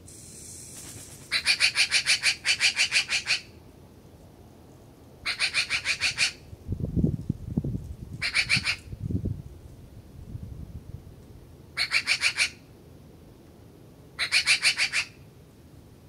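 A bird giving six bursts of rapid chattering calls, each a quick run of about ten harsh notes a second lasting around a second, with pauses between. A few low thumps come in the middle, between the fourth and fifth bursts.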